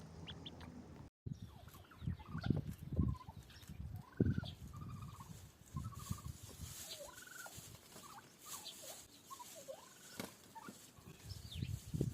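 Farmyard poultry, chickens and turkeys, giving many short chirping calls. Several low thuds fall in between them.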